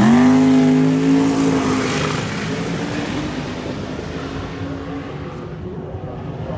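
Drag car's engine held at steady revs on the line, then launching: the engine note jumps up in pitch as it pulls away down the strip, then fades steadily over the next several seconds.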